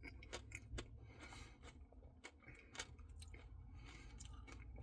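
Faint, close-up chewing and wet mouth clicks of someone eating a French Silk Pie Blizzard ice cream, with scattered small smacks.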